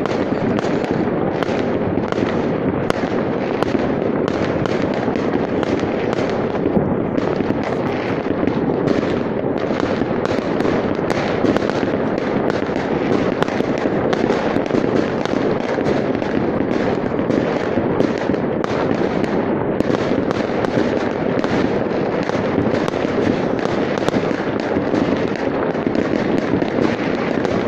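Many fireworks going off at once across a city: a dense, unbroken barrage of overlapping bangs and crackling with no let-up.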